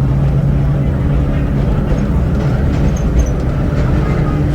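Vintage R1–R9 subway train running, heard from inside the car: a steady rumble with a low hum.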